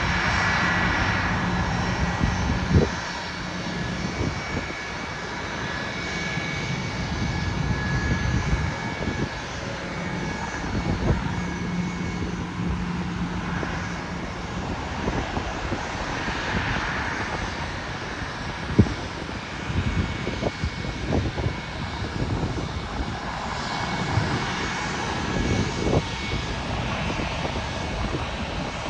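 Airliner jet engines running steadily, with a high steady whine over a wide rushing noise and a few sharp knocks.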